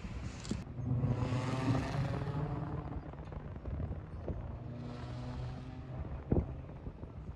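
Vehicles passing by: two swells of engine and road noise, one after the other, with a sharp knock near the end.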